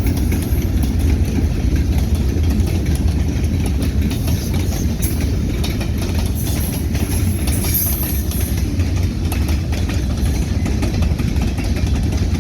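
Freight train running by: a steady low rumble of diesel engine and rolling cars, with scattered clicks.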